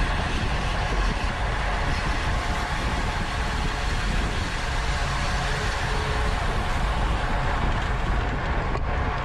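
Steady rush of wind over the microphone of a camera riding on a racing bicycle at speed, mixed with tyre and drivetrain road noise.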